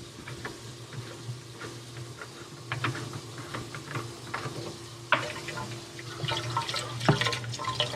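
Bathroom sink faucet running, water splashing into the basin and draining through the new PVC drain pipes during a leak test. A steady low hum lies underneath, with a few sharp knocks, the loudest about five seconds in.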